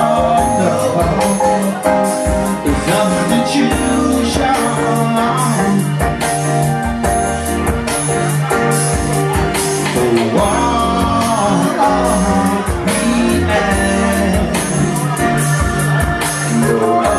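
Live band playing a song, with a bass line, a steady drum beat and some singing.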